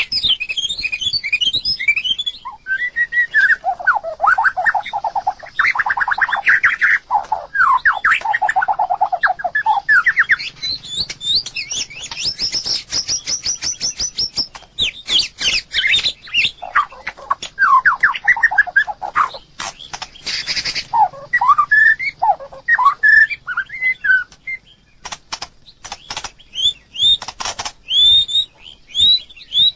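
White-rumped shama singing a long, varied song of fast trills and chattering runs, changing phrase every second or two, with short whistled notes near the end.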